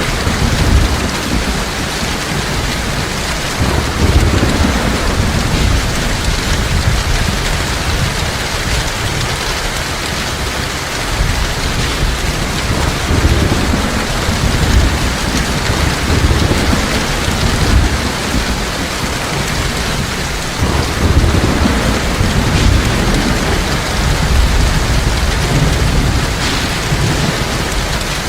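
Heavy rain pouring steadily, with low rumbles of thunder rolling in and out several times.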